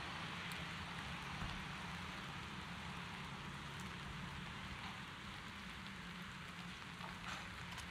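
Heavy rain falling on the street, a steady even hiss, with a low rumble underneath.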